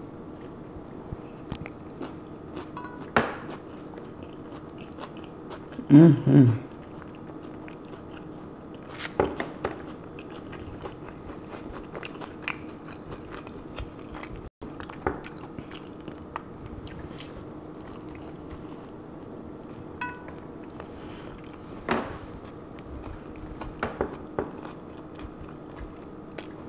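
A person chewing and biting into a taco, with short wet mouth clicks and smacks scattered throughout. The loudest mouth sounds come about six seconds in.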